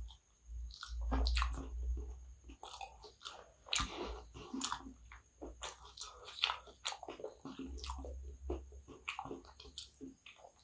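Close-miked chewing of a mouthful of kottu (shredded roti stir-fried with meat and vegetables): irregular wet, crunchy mouth clicks and smacks.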